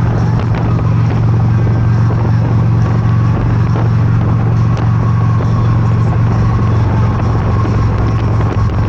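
Motorcycle engine running steadily at an even pitch while riding, a constant drone with road noise.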